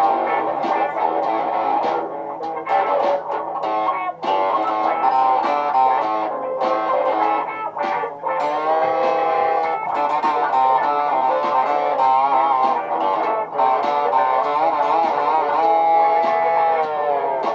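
Electric guitar playing over layered guitar loops, with sliding and wavering lead notes about halfway through.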